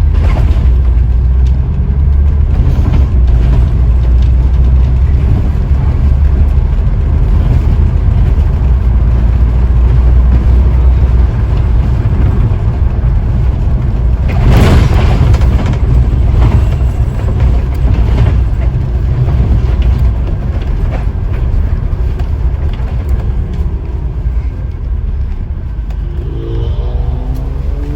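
Onboard sound of a Scania N94UD double-decker bus under way: its diesel engine runs with a heavy, steady low rumble, and there is one loud knock or rattle about halfway through.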